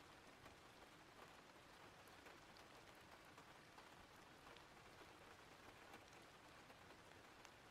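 Faint, steady rain: an even hiss of rainfall with scattered small drop ticks.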